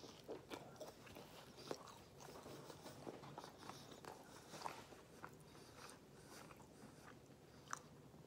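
Faint biting and chewing of a slice of pizza: soft, irregular mouth clicks and smacks, with a few sharper ones now and then.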